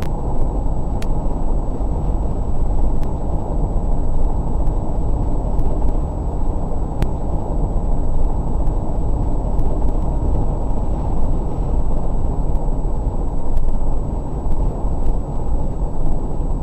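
Steady low rumble of a car driving, with road and engine noise picked up by a dash cam inside the cabin, and a few faint clicks.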